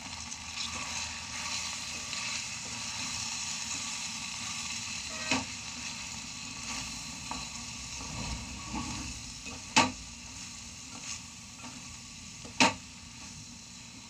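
Chicken pieces sizzling as they fry in a spice masala in a metal pot, stirred with a wooden spatula. A few sharp knocks of the spatula against the pot stand out, the loudest about ten and twelve and a half seconds in.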